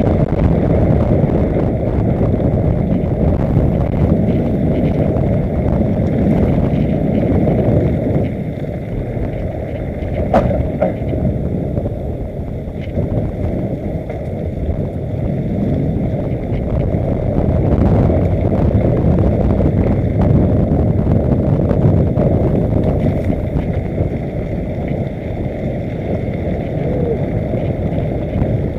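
Heavy wind buffeting on the microphone mixed with the rumble of bicycle tyres over a rough dirt trail on a downhill run, with a few light clicks and rattles.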